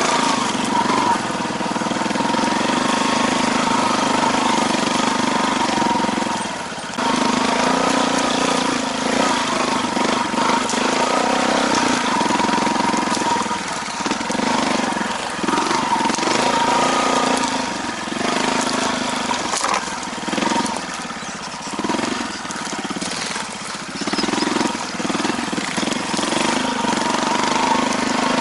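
Small engine running steadily, its sound dropping briefly about seven seconds in and several times more in the second half as the revs fall and pick up again.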